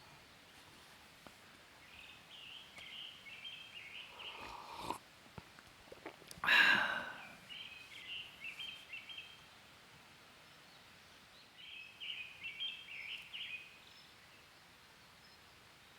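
A songbird singing short phrases of about two seconds, three times, over quiet outdoor background. A louder, brief sound comes about halfway through.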